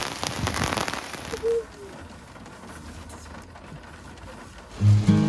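Heavy rain falling, a dense hiss full of fine drop clicks, that cuts off about a second and a half in to a much quieter hiss. Music with a steady bass line comes in near the end.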